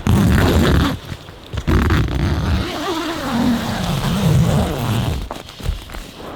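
Blizzard wind gusting hard against a tent, with heavy buffeting surges about a second in and again at two seconds, and a wavering howl in the middle.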